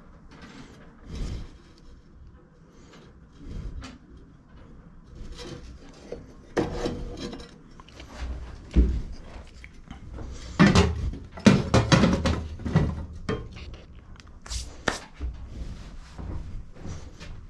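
Workshop handling noises while the front height adjuster of a lawn mower is being worked on: irregular knocks, clicks and scraping of tools and mower parts, with a cluster of louder knocks a little past the middle.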